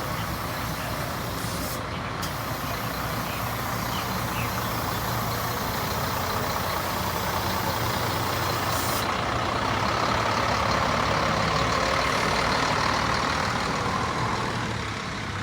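Heavy diesel bus engine running as a bus drives up, growing louder to a peak about ten seconds in, then easing off near the end.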